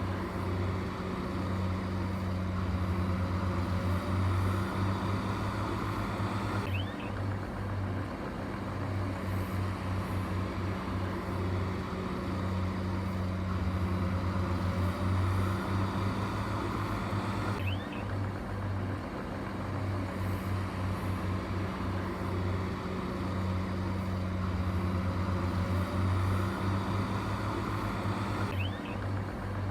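A heavy construction machine's diesel engine running steadily with a low drone. The sound swells and eases in a cycle of about eleven seconds, with a brief break in it three times.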